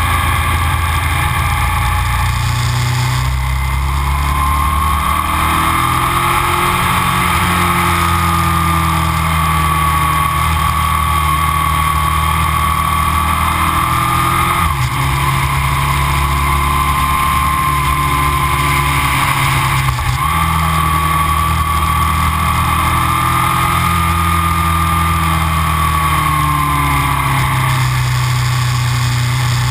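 Aprilia RSV 1000 V-twin motorcycle engine with Arrow aftermarket silencers, heard from an onboard camera while riding. It runs steadily with its pitch gently rising and falling, and is broken briefly twice, about halfway through and again some five seconds later.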